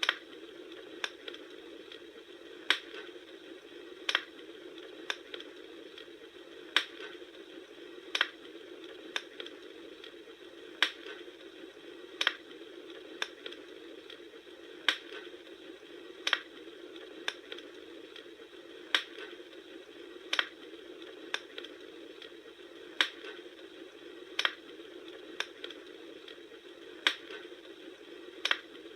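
Bonfire crackling: sharp pops about once a second over a steady hiss.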